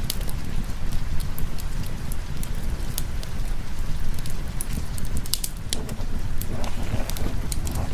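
Steady rain mixed with the sharp crackles of a wood fire in a fireplace, over a continuous low rumble. The rumble thickens slightly near the end.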